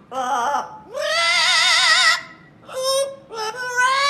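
Pet parrot singing in a high, human-like voice: a short note, then a long wavering note with a strong vibrato about a second in, then two more warbling notes toward the end.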